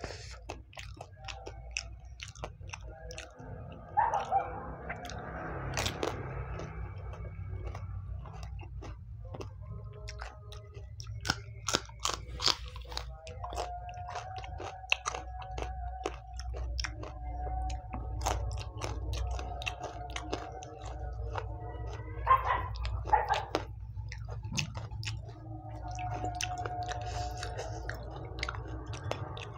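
Close-up crunching and wet chewing of pani puri: crisp hollow puri shells filled with spiced water and topped with raw green chillies, bitten and chewed in mouthfuls. Sharp crunches come throughout, loudest about 4 s, 12 s and 22 s in.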